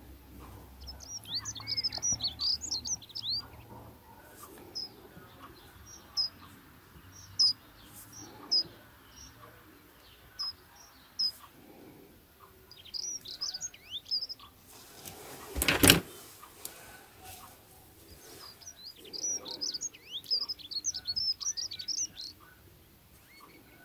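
Small birds chirping and twittering in bursts of quick high chirps, with one sharp knock about two-thirds of the way through.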